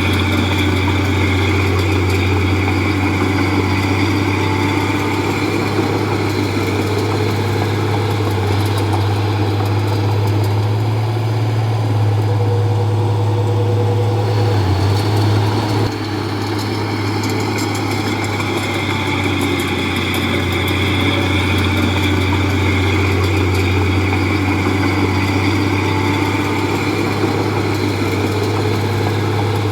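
Diesel engine of a Komatsu D31P bulldozer running steadily, its pitch rising a little from about ten seconds in and settling back with a brief dip near sixteen seconds.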